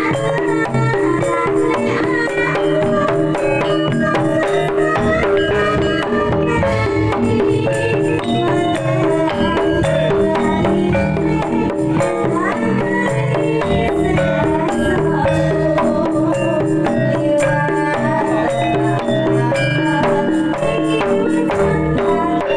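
Kendang hand drums playing jaipong patterns in jaranan-style Javanese music. Dense, rhythmic drum strokes run over tuned instruments holding a melody.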